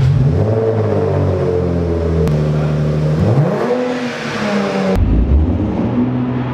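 2016 Jaguar F-Type's engine just after starting: the start-up flare falls back toward idle over about two seconds, a short rev blip comes about three seconds in, and it settles to a lower, steady idle about five seconds in.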